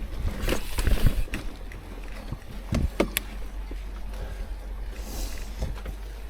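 Mountain bike riding over wet, muddy singletrack: knocks and clatters of the bike over roots and rocks, loudest about a second in and again around three seconds, over a steady low rumble.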